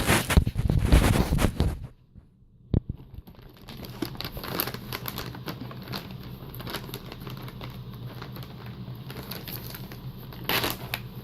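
Packaging crinkling and rustling as the contents are handled and pulled out of their bag: loud for the first two seconds, nearly silent for about a second, then softer rustling, growing louder again near the end.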